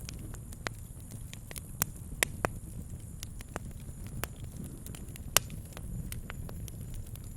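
Wood campfire crackling, with irregular sharp pops over a low rumble. The loudest pop comes a little past five seconds in.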